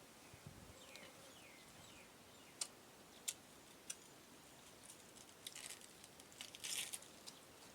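Close-up eating sounds: a few sharp clicks a few seconds in, then bursts of crisp crunching and chewing near the end. A couple of faint chirps sound near the start.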